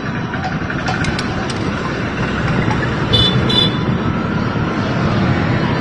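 Steady road-traffic noise with a short double toot of a vehicle horn about three seconds in.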